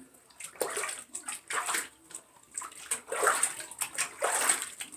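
Water splashing and sloshing in a run of short splashes as a macaw's feathers are washed by hand.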